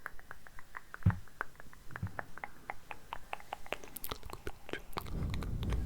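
Layered ASMR mouth sounds: rapid wet clicks and smacks of the lips and tongue, about five a second, with a single low thump about a second in and a low breathy rumble under the clicks near the end.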